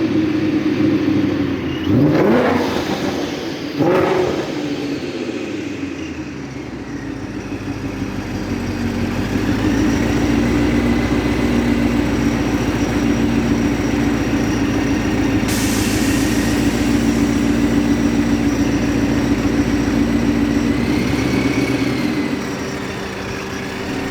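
2014 Mustang GT's supercharged V8 sounding through long-tube headers, an X-pipe and Corsa Xtreme quad-tip exhaust: two quick sharp revs a couple of seconds apart, then a long steady run with a deep drone that builds after a few seconds and eases off near the end.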